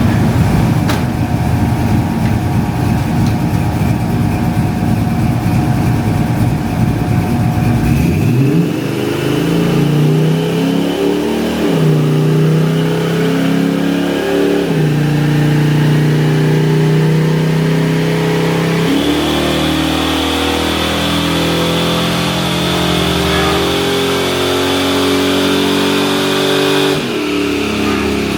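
A Ford Ranger's swapped-in 5.3-litre V8 runs with a dense low rumble. After about eight seconds it pulls hard under acceleration, its pitch climbing and then dropping back at each of several gear changes.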